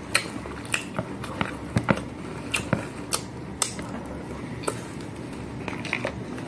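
Close-up eating sounds: a person chewing crisp fried dried fish, with a dozen or so irregular sharp crunches and mouth smacks.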